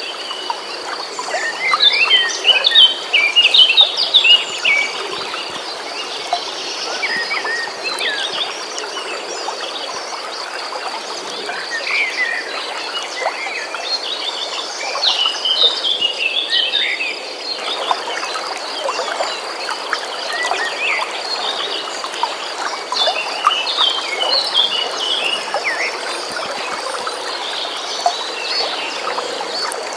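Birds chirping and singing in short scattered calls over the steady rush of a flowing stream, with a continuous high-pitched trill running underneath.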